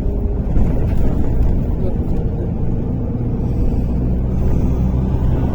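MAZ-103 city bus heard from inside the passenger cabin while on the move: a steady low rumble of engine and road noise, with a faint engine hum over it.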